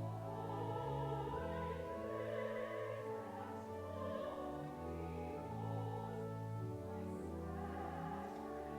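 A hymn sung with organ accompaniment: a singing voice over long held chords that change slowly.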